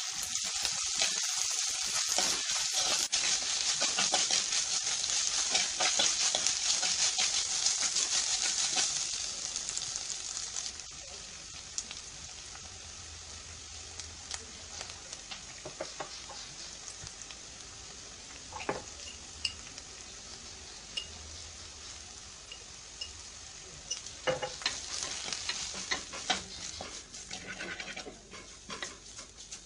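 Sliced onions and green chillies frying and sizzling in a clay pot while a steel spoon stirs them. The sizzle is loud for about the first ten seconds, then dies down, and the spoon clicks and scrapes against the pot, most often near the end.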